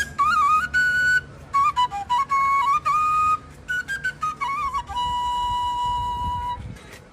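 Solo flute playing a melody in short ornamented phrases with quick turns between notes, then one long held note about five seconds in.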